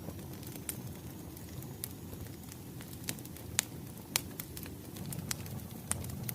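Wood fire crackling: a steady low rumble of burning logs with sharp, irregular pops, the loudest a little past halfway.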